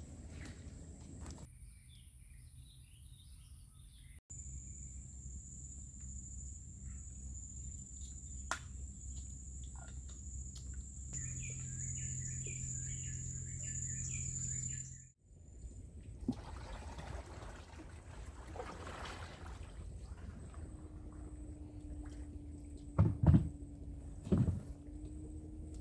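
Outdoor riverside ambience in several short cuts: a steady high-pitched insect drone, repeated bird chirps and a low rumble. Two or three loud knocks come near the end.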